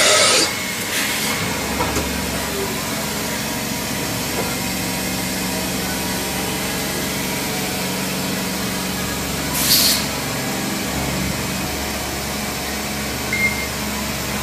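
Mazak VTC-30C CNC vertical machining center running through its automatic tool length measurement cycle, a steady machine hum with a few fixed tones. A short burst of hiss comes about ten seconds in.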